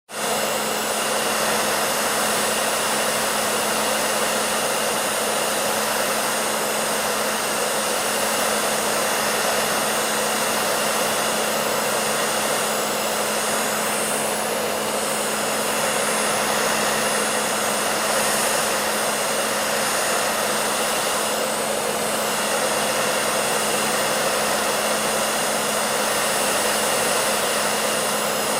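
Hair dryer running steadily: an even rush of blown air over a steady motor hum, cutting in suddenly at the start.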